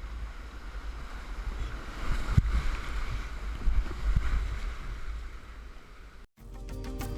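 Rushing water with wind buffeting the microphone, and a few dull knocks in the middle. It cuts out briefly near the end, and music comes in.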